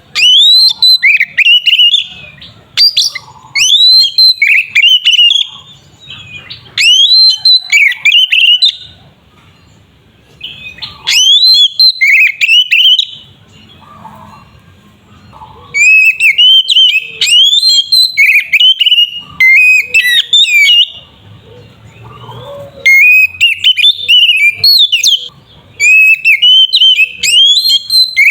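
Oriental magpie-robin (kacer) singing loudly in bouts of rapid, varied whistled phrases full of quick up-and-down sweeps, each bout lasting a few seconds with short pauses between.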